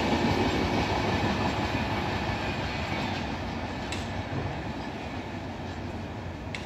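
Passenger train of LHB coaches running away along the track, the rumble and clatter of its wheels on the rails fading steadily as the last coach recedes. Two brief sharp ticks sound about four seconds in and near the end.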